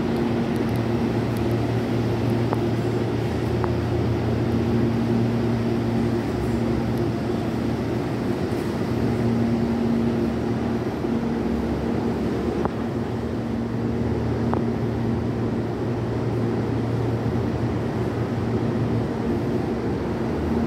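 Electric commuter train at a station platform: a steady low electrical hum from its motors and equipment, with a few faint clicks.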